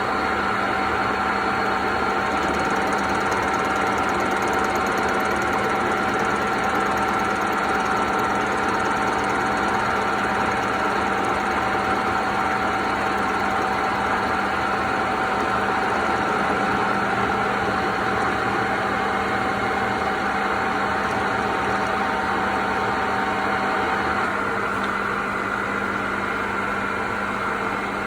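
Metalworking machine tool running steadily, a constant motor hum with a few steady whining tones over the cutting noise. About 24 seconds in, one of the tones stops and the sound changes slightly.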